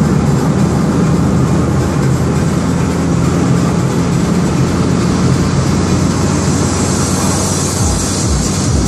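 Perodua Axia's engine and road noise droning steadily inside the cabin at highway cruising speed, with a steady low hum. Music with a beat starts near the end.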